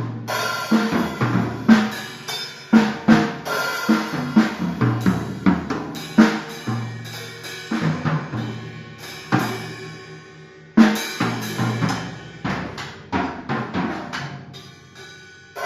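A drum kit being played: a busy, uneven run of bass drum and snare strikes with ringing low drum tones. The playing thins out a little before a loud hit about eleven seconds in.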